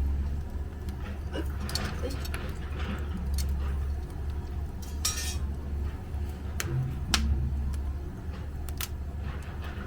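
Scattered light metallic clinks and taps, with a sharper one about seven seconds in, over a steady low hum.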